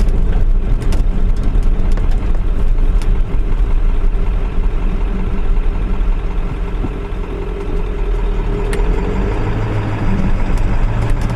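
Diesel pickup truck driving, heard from inside the cab: a steady low engine drone with road rumble.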